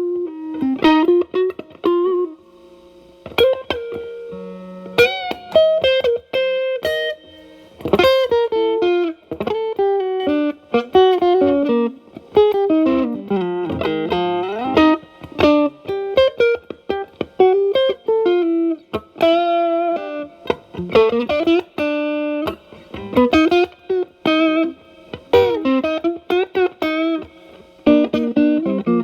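Overdriven electric guitar, a Fender Telecaster through an E.W.S. Brute Drive distortion pedal set at about gain 10–11 into the clean channel of a Marshall Valvestate amp. It plays improvised single-note blues lead lines with string bends and vibrato.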